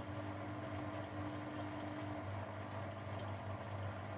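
Grundig washing machine humming at the end of its cycle, after the post-spin loosening tumble; a steady tone in the hum stops about halfway through.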